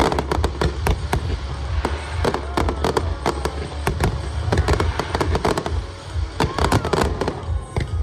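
Fireworks display: a rapid, irregular barrage of aerial shell bursts and crackling reports over a low rumble, with the show's music faintly underneath.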